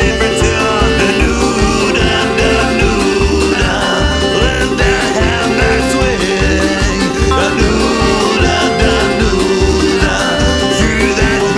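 Folk punk song with a plucked banjo over a steady driving beat.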